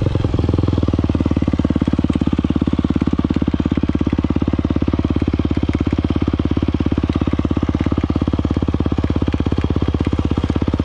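Yamaha YZ250F dirt bike's four-stroke single-cylinder engine running at a steady speed, a rapid even exhaust pulse with no revving.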